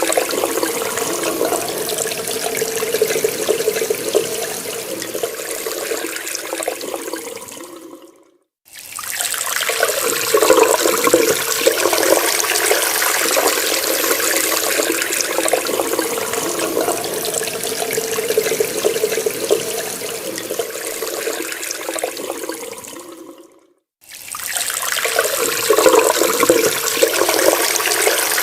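Water running hard from a tap in a steady rush. It fades and cuts out to silence for a moment twice, about 8 seconds in and again about 24 seconds in, then starts again at full strength.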